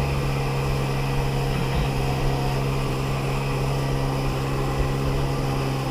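1994 Sea-Doo XP jet ski's two-stroke engine running at a steady, unchanging speed: an even drone.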